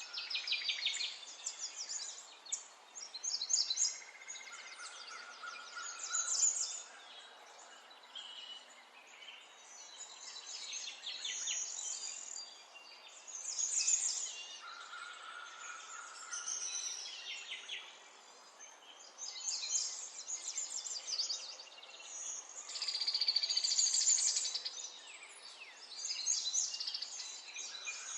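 A songbird singing in phrases of rapid, high-pitched trills and chirps lasting a few seconds each, separated by short pauses, over a faint steady hiss.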